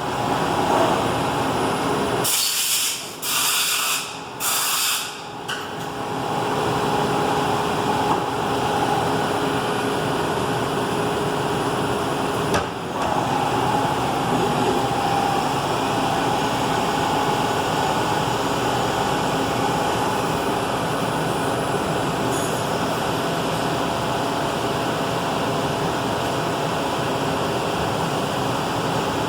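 A Bridgeport Romi EZ Path SD CNC lathe running with a steady hum and faint whine. About two to five seconds in come three short bursts of hiss, like spray or an air blast.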